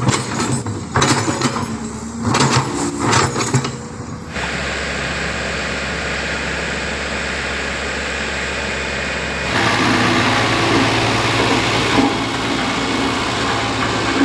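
Heavy truck engine running, in three segments that change abruptly twice: first with sharp bangs and bursts, then a steady rushing noise, then a steady drone.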